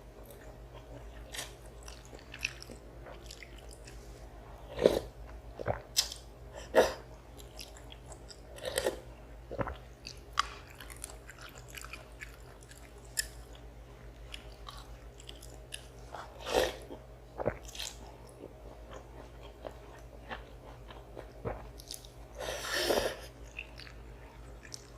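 Close-up eating sounds of a person chewing a meal of instant noodles and rice: irregular wet chewing, mouth clicks and smacks, a few louder than the rest, with one longer, louder sound near the end.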